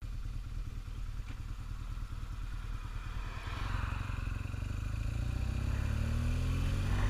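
Motorcycle engine running on the move, cutting in suddenly, its pitch and level rising through the second half as it speeds up.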